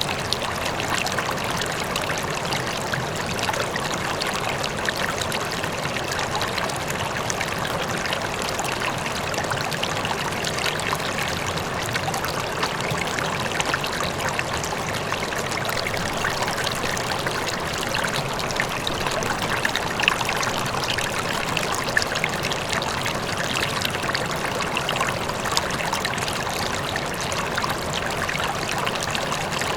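River water flowing and splashing steadily over rocks, a continuous even rush with small splashes and gurgles throughout.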